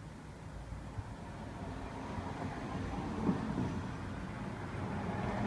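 A vehicle engine running with a steady low rumble that grows gradually louder.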